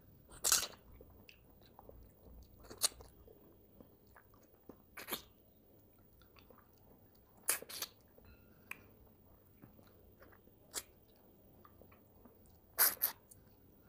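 Close-miked person eating fish curry and rice by hand: quiet chewing broken every two to three seconds by sharp, loud, wet mouth clicks, some in quick pairs.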